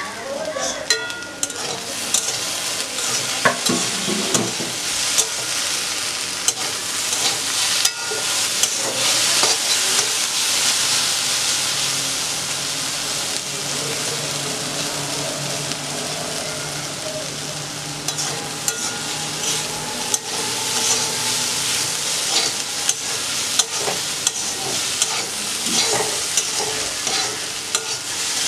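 Sliced okra sizzling steadily in hot oil in a metal wok, with a metal spatula scraping and clicking against the pan as it is stirred and turned.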